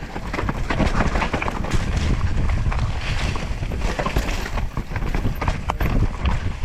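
2023 Devinci Chainsaw downhill mountain bike riding fast down a rough trail: a constant rumble of tyres over dirt and rocks, with many quick knocks and rattles from the bike and wind on the microphone.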